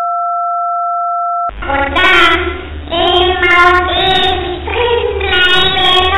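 A steady electronic tone, two pitches sounding together, for about a second and a half, then cut off by a high-pitched, child-like voice that carries on to the end.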